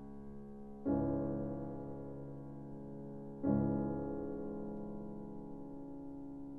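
Slow, soft piano background music: a held chord struck about a second in and another about halfway through, each fading away slowly.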